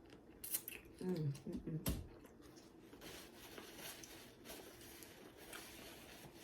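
Close-miked mouth sounds of eating: a bite with sharp clicks, a short low hum about a second in, then steady wet crunching and chewing.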